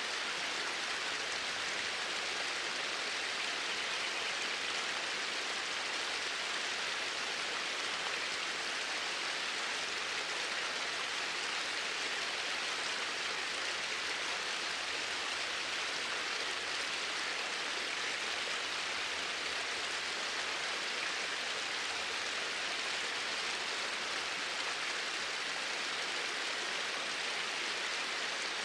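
Flowing water, a steady even rush of a stream that does not change in level or character.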